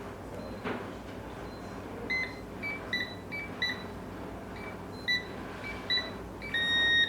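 Electronic beeping: a string of short beeps at two slightly different pitches, like buttons being pressed on a device, then one longer, lower beep near the end.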